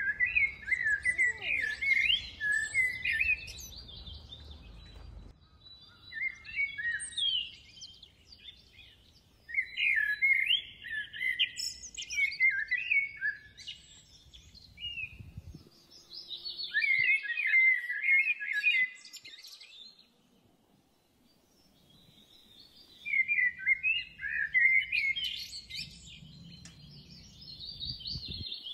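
Birds chirping in bouts of rapid, high twittering calls, each bout lasting a few seconds with quieter pauses between.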